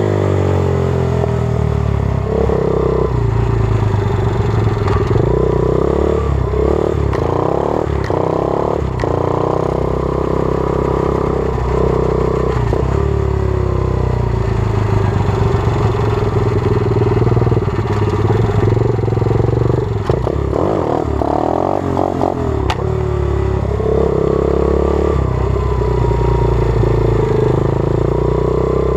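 120cc pit bike's single-cylinder engine running as the bike is ridden, its revs rising and falling again and again, with a few sharp knocks and rattles.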